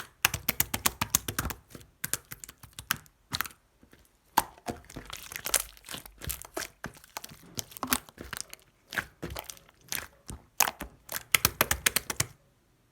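Clear slime being squeezed and stretched by hand, making runs of sharp clicks and pops with short pauses between; it stops shortly before the end.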